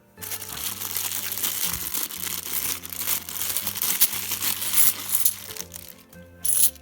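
Plastic coin bag crinkling and rustling as it is handled and opened, with soft background music underneath.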